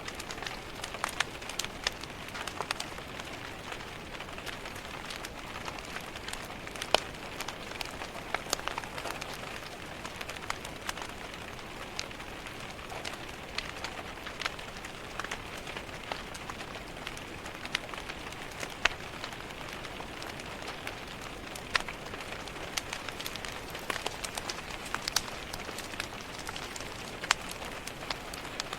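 Steady rain pattering on a window glass, mixed with a wood fire crackling: a constant hiss broken by frequent sharp pops and snaps.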